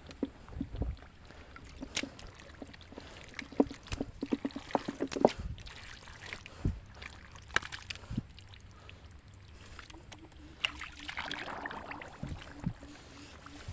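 Irregular splashing and sloshing of shallow, muddy pond water as someone wades and grabs at fish by hand. A faint steady hum comes in about ten seconds in.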